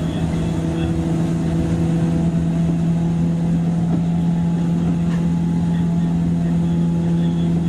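JR 103 series electric train heard from inside its motor car, running at an even speed: a steady low hum over the rumble of the wheels on the track.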